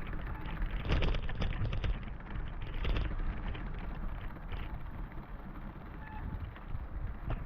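Rain and wind rushing over the microphone, with a low rumble of wind buffeting and scattered knocks and rustles, louder for a moment about one and three seconds in.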